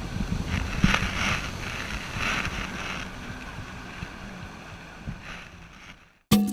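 Wind rumbling on the microphone over the hiss of surf, which swells a couple of times and then fades out; music with a Latin beat cuts in at the very end.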